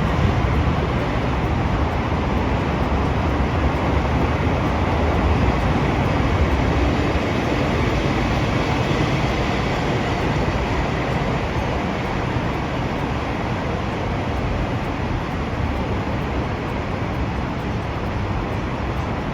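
A train running past on the rails: a steady rush of wheel and running noise with a heavy low rumble, easing slightly toward the end.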